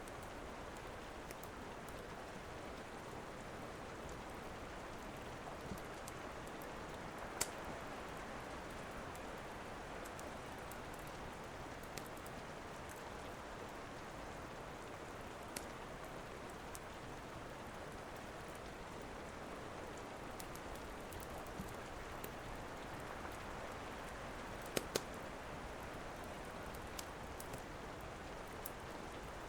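Steady rain falling, with a few sharp pops of a crackling wood fire scattered through it, two of them close together near the end.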